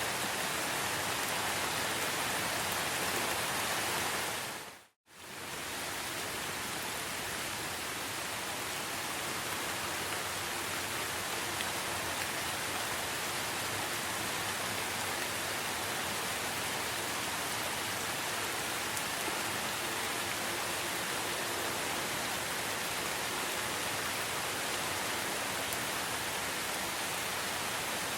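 Steady rain falling, an even hiss with no single drops standing out. About five seconds in it fades briefly to silence and fades back in.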